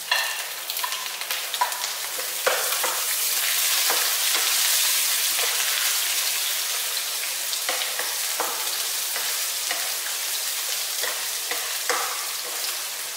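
Chopped garlic and onion sizzling in hot oil in a nonstick frying pan, the sizzle swelling a few seconds in. A spatula stirs them, scraping and tapping the pan now and then.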